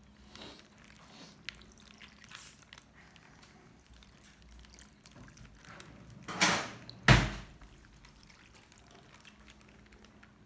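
Liquid poured out in two short splashes a little past halfway, the second starting with a knock.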